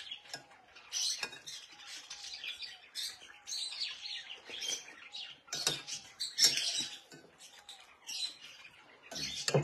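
Caged birds chirping busily and continuously, with a few sharp knocks of a spoon against a bowl.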